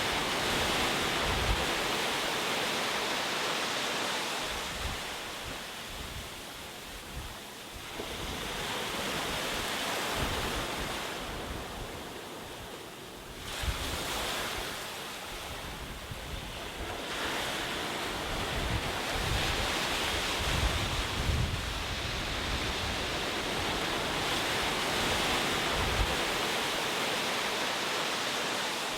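Ocean surf: waves breaking and washing in, the rush of water swelling and easing every several seconds.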